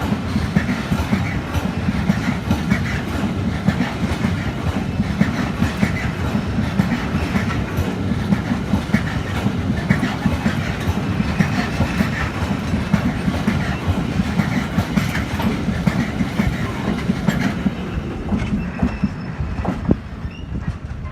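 A long train rolling past at close range, its wheels clattering steadily over the rail joints, quietening near the end.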